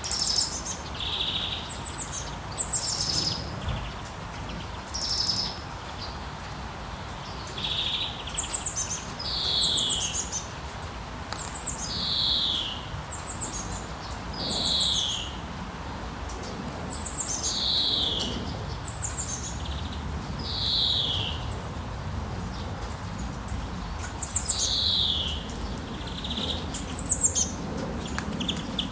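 A songbird singing the same short phrase over and over, one every two or three seconds: a quick high trill dropping into a slur that falls in pitch. Under it runs a steady low rushing noise.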